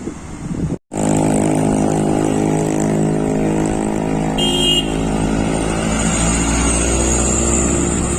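Truck engine running at steady revs after a sudden cut, with a brief high-pitched tone just past the middle.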